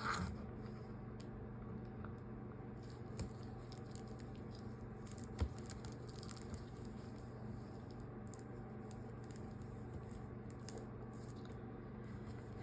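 Quiet handling of cloth and sewing materials: faint rustling and light taps, with one sharper knock about five seconds in, over a steady low hum.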